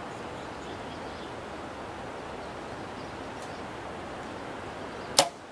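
Steady wind and outdoor noise, then near the end a single sharp, loud snap of a bow shooting an arrow.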